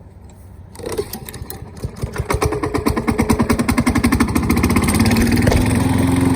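Toro lawn mower engine starting about a second in, firing unevenly at first and then speeding up to a steady run. It starts a little badly: it is low on gas, and some water has probably got where it is not supposed to be.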